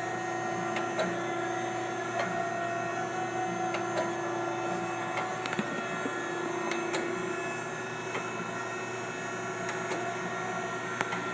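Steady electric machine hum with several steady tones from a Kent SGS-1020AHD surface grinder standing under power, with scattered faint ticks. One lower tone fades out a little past halfway.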